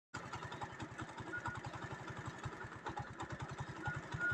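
A small engine idling steadily, with an even, rapid putter of about ten beats a second.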